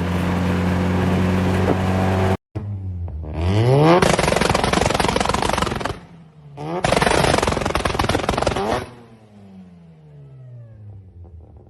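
Rotary engine running at steady revs, then after a sudden cut, revved hard twice with the pitch climbing into two loud bursts about two seconds each, the second ending with the revs falling away.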